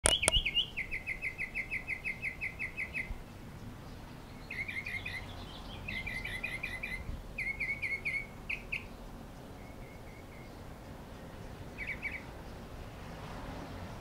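A small bird chirping: a fast run of about a dozen short, even chirps in the first three seconds, then scattered short clusters of chirps. A sharp click comes at the very start.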